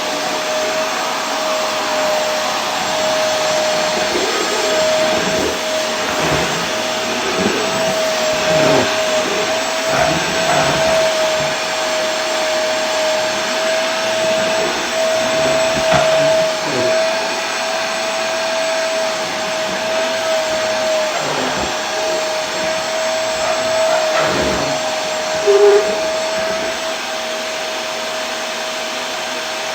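Vacuum cleaner motor running continuously: a steady rush of air with a constant whine, and a brief louder blip near the end.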